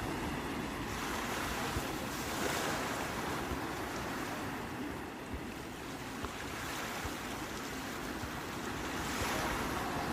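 Sea waves breaking and washing on the shore, a continuous surf hiss that swells and ebbs, strongest about two seconds in and again near the end. Low wind rumble buffets the microphone.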